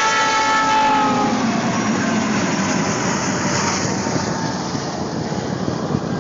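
Train horn sounding and fading out about a second in, giving way to the steady running noise of a train passing on the rails.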